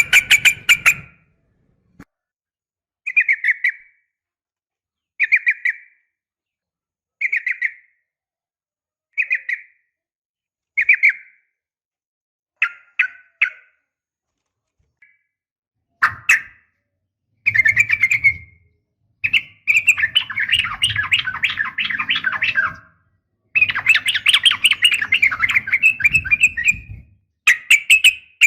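Sooty-headed bulbul (trucukan) calls: short bubbly phrases about every two seconds, then, past the middle, longer runs of rapid chattering notes.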